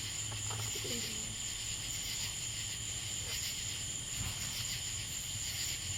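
A steady chorus of night insects chirring in several high, unbroken bands. A low hum fades out shortly after the start.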